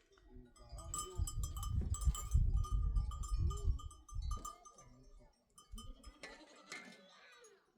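A flock of goats and sheep bleating, with several calls, more of them near the end, over a low rumbling noise in the first half.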